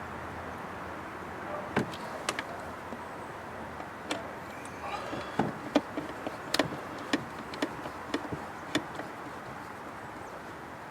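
Small, irregular clicks and taps of hand tools and metal parts as the screws of a replacement mass air flow sensor are started and worked, about a dozen over several seconds, over a steady hiss.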